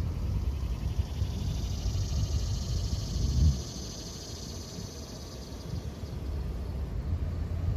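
Outdoor ambience: a low rumble, heavier for the first three and a half seconds, under a high, steady chirring chorus of wild animals from about a second and a half to six seconds in.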